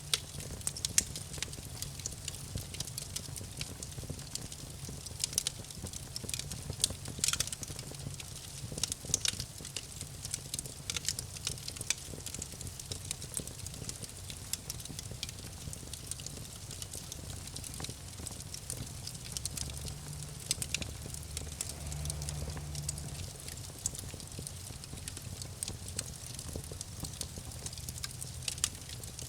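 Campfire crackling: irregular sharp pops and snaps from burning wood over a low steady rumble of the flames.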